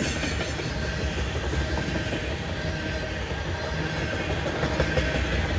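Freight cars of a long CSX mixed freight train rolling past: a steady rumble of steel wheels on rail, with light clatter from the cars.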